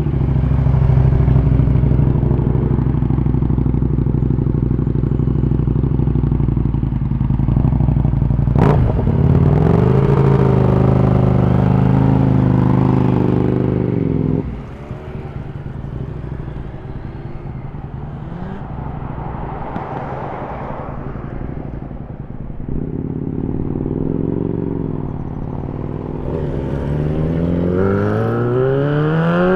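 Superbike engines running loudly, revving, with a single sharp crack about nine seconds in. About halfway the sound drops abruptly to a quieter engine note, and near the end one engine's pitch climbs steeply as a bike accelerates.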